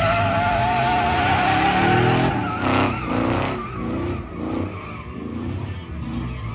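A truck engine revving hard while its tyres squeal as it is driven sideways. The squeal dies away after about two seconds, and the engine revs keep rising and falling.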